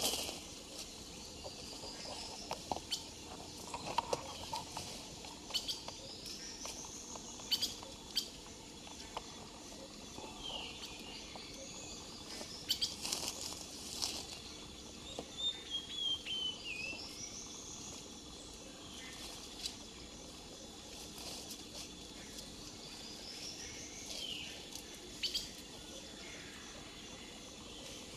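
Birds calling: a rising whistle repeated every few seconds, with a short falling run of chirps about halfway through. Scattered sharp clicks and knocks sound between the calls.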